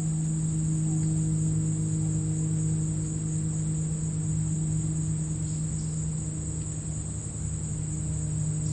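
Crickets chirping in the grass as a continuous high, even chorus, with a low steady hum underneath.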